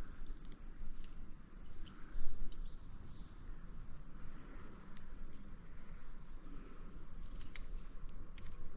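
Insects chirring steadily at a high pitch, with scattered clicks and rustling and a thump about two seconds in.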